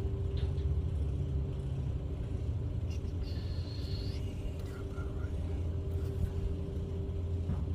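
A machine running steadily: a low rumble with a constant hum, and a brief high-pitched squeal a little over three seconds in.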